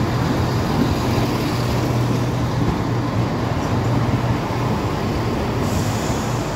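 A pair of Class 170 Turbostar diesel multiple units running past at the platform: a steady low diesel hum under wheel and rolling noise. A brighter hiss comes in near the end.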